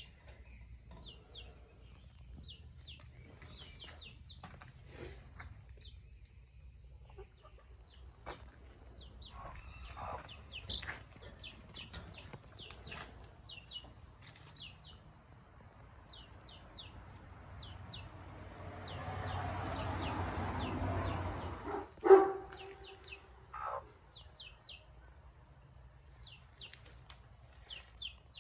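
Small flock of bantam chickens, Seramas and Silkies among them, clucking and chirping in a pen with many short, scattered calls. A rushing noise swells up about two-thirds of the way through, and a single sharp knock with a brief ring follows just after it, the loudest sound.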